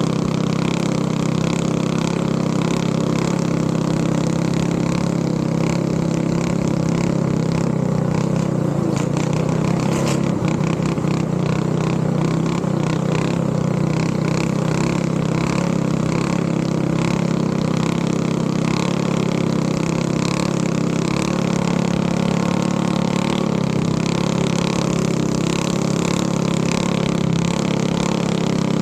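Boat engine running steadily at a constant speed while under way, with a strong low hum and a hiss of noise above it.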